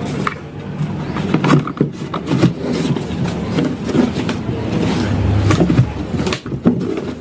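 Irregular clatter and scraping of parts being handled and fitted back together on a home-theatre subwoofer cabinet, with many short knocks and clicks.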